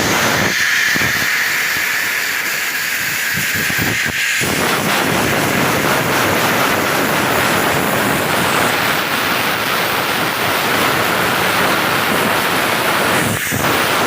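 Loud steady hiss of a high-pressure cleaning jet blowing through a truck's urea filter. The hiss is thin and high at first, turns fuller about four seconds in, and dips briefly near the end.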